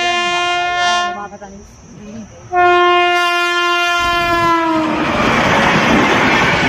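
Rajdhani Express locomotive horn sounding, breaking off about a second in, then sounding again with its pitch falling slightly as it passes. It gives way to the loud rush and clatter of the express train going by at speed.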